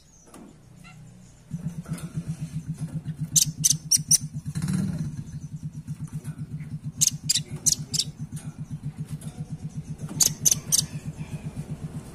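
Velvet-fronted nuthatch calling in three bursts of rapid, high, sharp notes, four or five notes to a burst. A low, evenly pulsing hum runs underneath from about a second and a half in.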